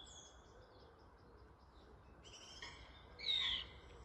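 A songbird singing: a thin held whistle at the start, then a burst of high varied phrases about two seconds in, the loudest of them a falling trill a little after three seconds.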